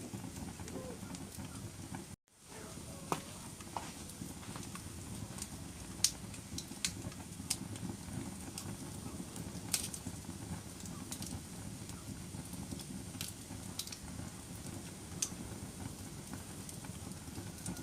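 Wood fire burning in a fireplace: a steady low rumble with scattered sharp crackles and pops. The sound cuts out for a moment about two seconds in.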